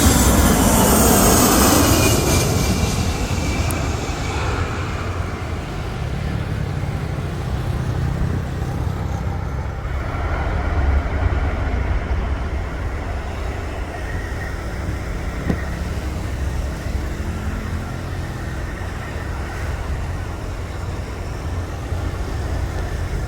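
Boeing KC-135 Stratotanker's turbofan jet engines passing close, a loud rush with a whine falling in pitch over the first few seconds, then dying down to a steady low rumble.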